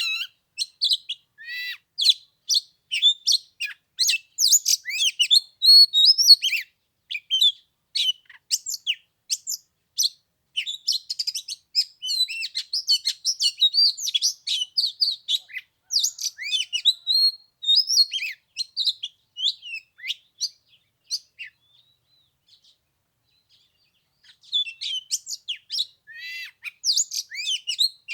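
Oriental magpie-robin singing: a fast, varied run of loud whistles and chirps, breaking off for a couple of seconds near the end and then starting again.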